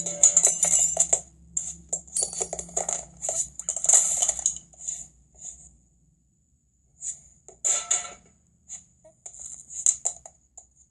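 Cartoon sound effects: a quick run of short clattering, rattling noises like small hard objects knocking together. They thin out about halfway, pause for a second or so, then come back as a few scattered clatters.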